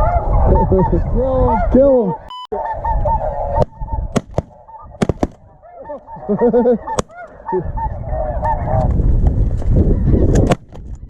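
Snow geese honking over and around a decoy spread. From about three and a half seconds in, a scattered volley of shotgun shots cuts through the calling.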